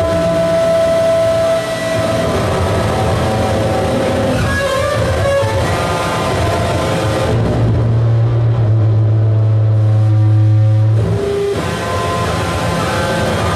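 Noise music: a dense, loud wall of layered electronic noise and held droning tones. About halfway through, a heavy low hum takes over as the high end drops away, and the full noise texture returns near the end.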